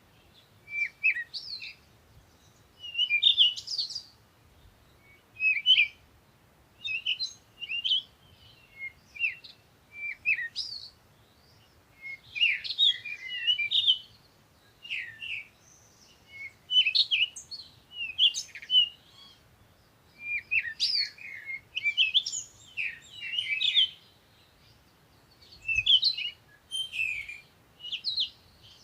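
Songbirds singing: short, quick bursts of chirping, warbling notes repeated every second or two, with brief pauses between phrases.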